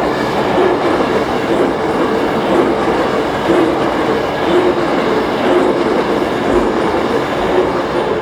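Hankyu electric train running on the rails: a loud, steady rush of wheel and track noise with a faint hum of motor tones.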